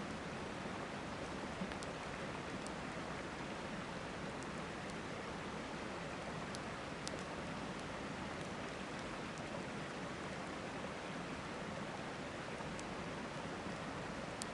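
Steady rush of river water, with a few faint sharp crackles from a wood campfire scattered through it.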